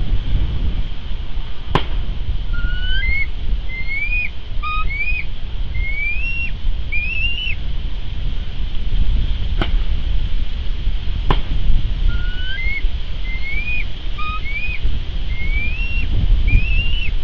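A bird sings a phrase of about eight clear whistled notes, most of them rising in pitch, starting about two and a half seconds in, and repeats the same phrase near the end. Underneath runs a steady low rumble, with a few sharp clicks.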